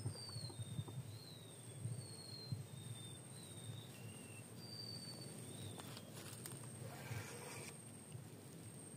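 A bird singing a series of short, high whistled notes, several sliding downward, over a thin steady high tone. A brief rustle comes about six to seven seconds in.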